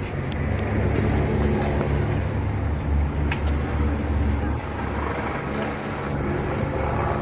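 Street traffic noise with a motor vehicle's low engine rumble that swells from about one second in to about four and a half seconds in, with a few sharp clicks.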